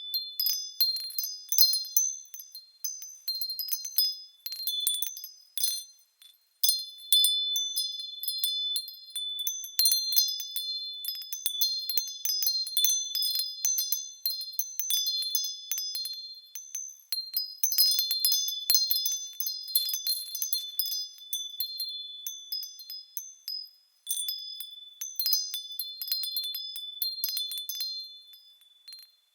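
Small metal wind chimes tinkling, struck in quick, irregular clusters, with high ringing tones that hang on between strikes. The chiming drops away briefly about six seconds in and again near twenty-four seconds, then resumes.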